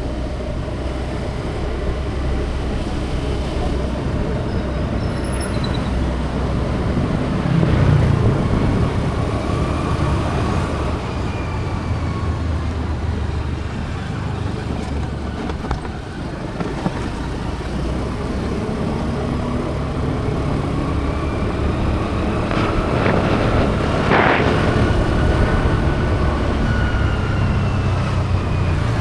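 Road traffic noise: a steady rumble of vehicle engines and tyres, with vehicles passing. The loudest pass comes about three-quarters of the way through.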